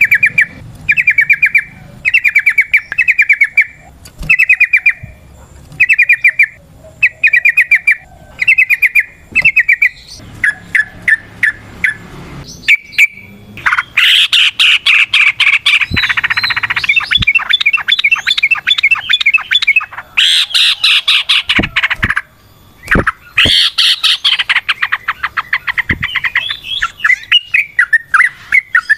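Yellow-vented bulbul (trucukan) calling. Short rattling chattering phrases come about once a second at first, then about halfway through it breaks into long, fast, continuous rattling runs, the long 'ropel' song.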